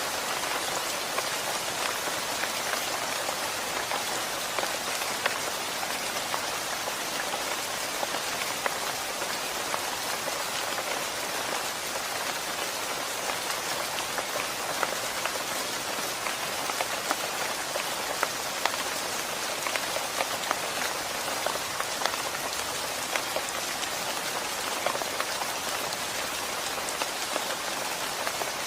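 Steady rain falling on surfaces, an even hiss with many individual drops ticking close by.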